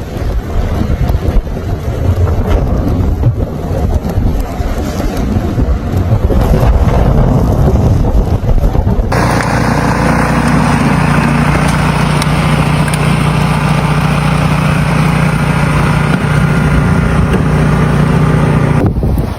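Wind buffeting the microphone with a low, uneven rumble. After an abrupt cut about nine seconds in, a motor vehicle's engine runs steadily with a constant low hum and hiss.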